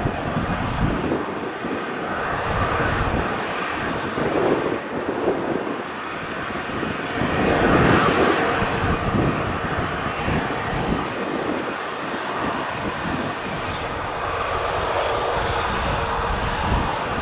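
Aircraft engines running, swelling louder to a peak about eight seconds in and then easing back to a steady noise. Gusty wind buffets the microphone throughout.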